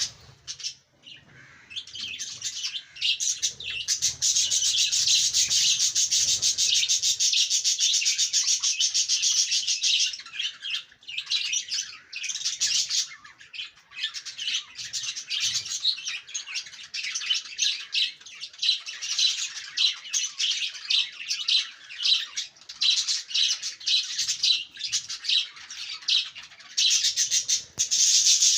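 A flock of budgerigars chattering and warbling together in dense, continuous high-pitched chirping, with a brief lull about a second in.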